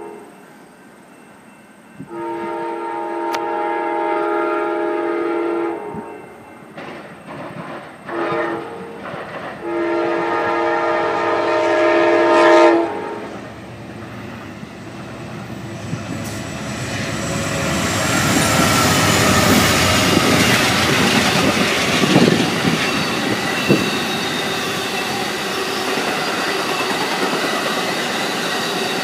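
Amtrak passenger locomotive's multi-chime horn sounding a grade-crossing warning: a long blast, short blasts, then a final long blast. The train then passes close by, the clatter and rumble of its wheels on the rails building up and running on steadily, with a faint wheel squeal.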